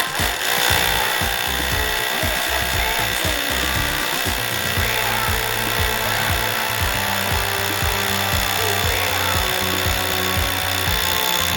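Hammer drill running steadily with a high motor whine, boring an anchor hole into a concrete ceiling. Background music with a beat plays underneath.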